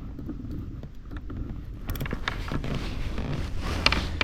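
Scattered clicks, knocks and creaks of gear being handled in a small rowing boat over a low steady rumble, starting about halfway through.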